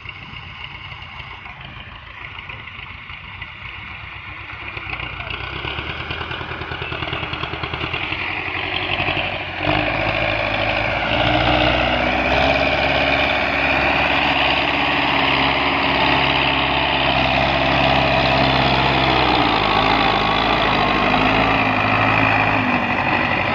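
Tractor engine running, growing louder over the first ten seconds, then loud and steady.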